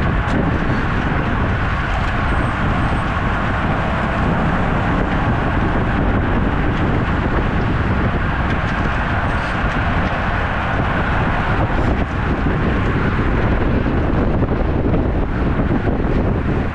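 Steady rush of wind buffeting the microphone, mixed with road noise, while riding a road bike.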